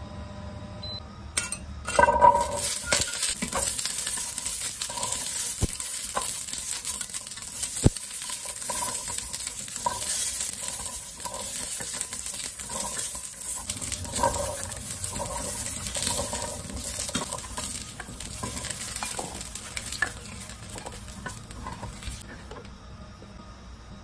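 Peeled chestnuts dropped into hot oil in a stainless steel pot and sizzling as they are stir-fried until brown, with a spatula scraping and clinking against the pot. The sizzle starts loudly about two seconds in and cuts off shortly before the end.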